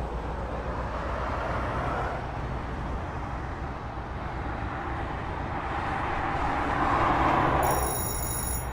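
Metra commuter train running past: a continuous low rumble with rail and wheel noise that swells twice, loudest about seven seconds in. A thin high whine joins near the end.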